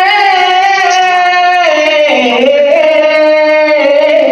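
A voice singing long held notes. The pitch wavers and slides down about halfway through, then settles on a lower held note.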